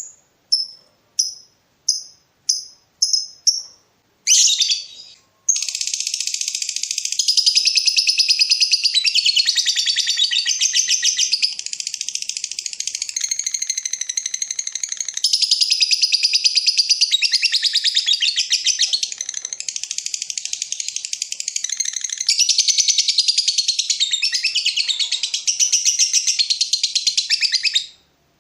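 Lovebird calling. A run of short, sharp, high chirps comes about every 0.6 s. From about five seconds in it becomes a long, unbroken, rapid chattering trill (the 'ngekek panjang' that lovebird keepers prize), which runs for over twenty seconds and stops just before the end.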